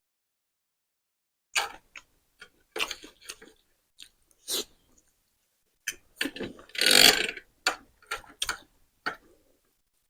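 Close-up eating of spicy noodles: scattered wet chewing and lip-smacking clicks, with one longer, louder slurp a little after halfway.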